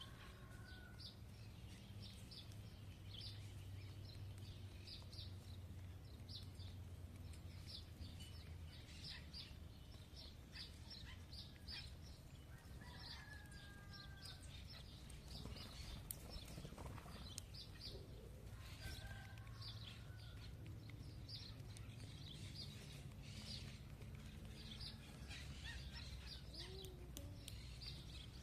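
Small birds chirping, many short high chirps repeating throughout, with a few lower calls in between, over a faint low hum.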